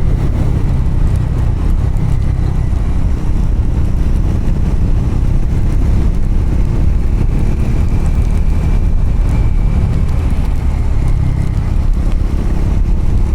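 Triumph Scrambler motorcycle under way on a gravel road, its engine running at a steady speed under a heavy, even rumble of wind and road noise.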